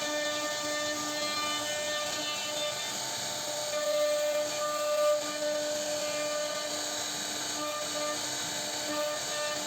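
CNC router spindle running with a steady whine over a continuous hiss, cutting wood.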